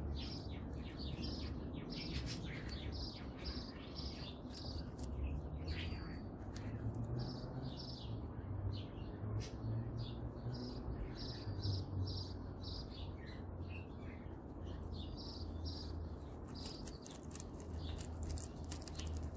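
Small birds chirping over and over in short, high notes, with a steady low rumble underneath.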